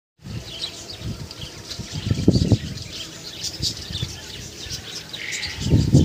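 Many small birds chirping, with short high calls overlapping densely. A couple of low thumps come through, one near the middle and one near the end.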